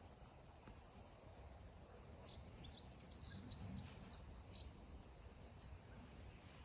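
Near silence with a small bird twittering in the background: a quick run of high, short chirps from about a second and a half in until nearly five seconds in.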